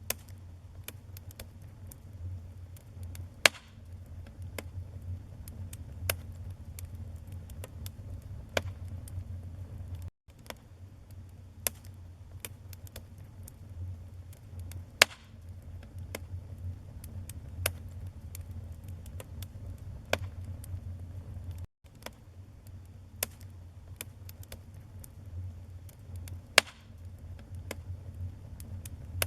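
Wood fire burning in a fireplace: a low steady flutter of flames under frequent crackles, with a few sharp louder pops. The sound cuts out for an instant twice.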